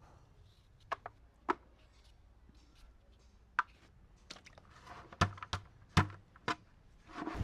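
Irregular knocks and clicks, with two louder thuds about five and six seconds in.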